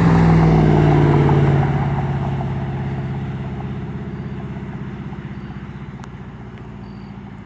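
Dodge Ram Hemi V8 exhaust running straight through a muffler-delete Y-pipe. It is loud at first, then its note eases and fades steadily over several seconds.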